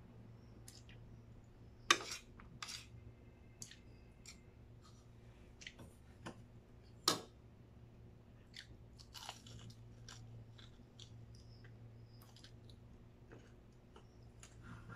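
Chewing and biting, with scattered clicks and taps of a spoon and fork on a plate. Two sharper taps stand out, about two and seven seconds in, over a faint low steady hum.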